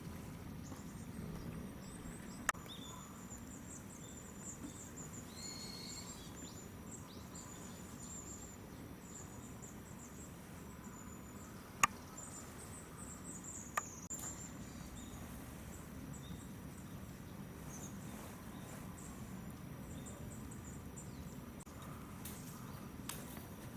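High, thin twittering of small birds: quick runs of short chirps, over a low steady background hum, with a few sharp clicks, the loudest about halfway through.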